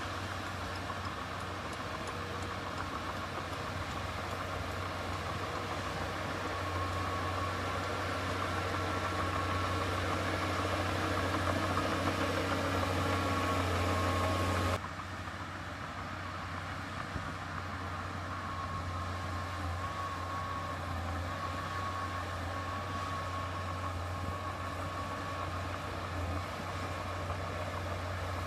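Heavy diesel earthmoving machinery engine running steadily with a deep hum. It grows a little louder, then drops suddenly about halfway through and runs on steadily.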